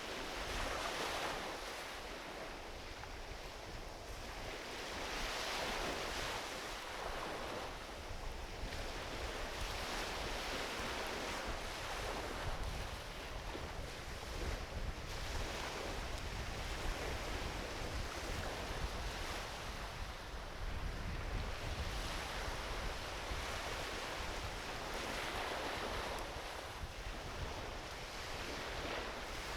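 Small ocean waves washing onto a beach, swelling and falling back every few seconds, with wind rumbling on the microphone.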